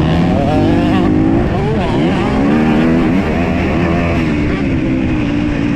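Motocross dirt bike engine revving hard, its pitch rising and falling again and again as the throttle is worked and gears change.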